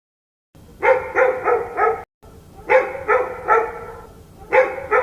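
Dog barking in quick runs of about four barks at roughly three a second, with a short pause between runs.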